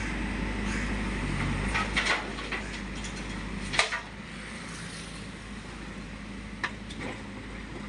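JCB 3DX backhoe loader's diesel engine running steadily while it works, with a few sharp metallic clanks, the loudest about four seconds in.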